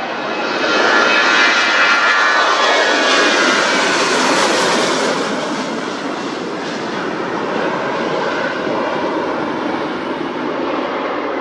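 Airliner engines passing close by: a loud, dense engine noise with a whine falling in pitch as the aircraft goes past, loudest in the first few seconds, then settling into a steadier, somewhat quieter rumble.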